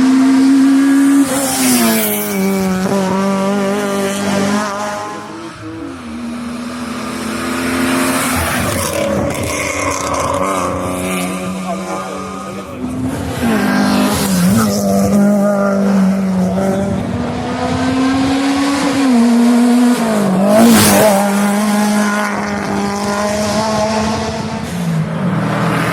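Hillclimb race car engine heard from on board, revving up and dropping back again and again as the car shifts gears and takes corners on the climb.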